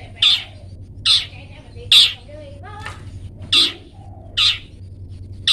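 Long-tailed shrike (cendet) giving its harsh 'toet' call over and over, short loud calls about one a second, with a few fainter chirps between them.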